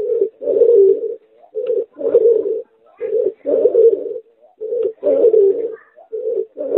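A pigeon–dove hybrid, a domestic pigeon crossed with a dove, cooing over and over in low phrases. Each phrase is a short coo followed by a longer one, and the phrases repeat about every one and a half seconds.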